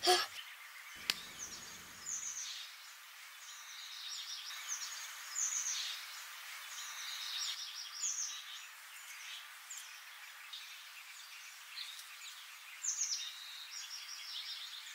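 Birds chirping in repeated short, high, falling calls that come in clusters, over a faint steady hiss of outdoor ambience.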